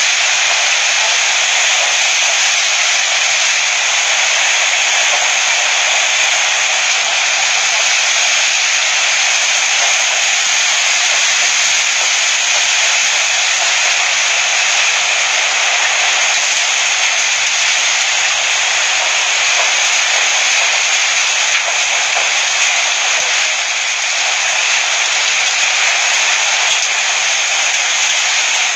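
Rainstorm: a steady, loud rush of heavy rain and wind.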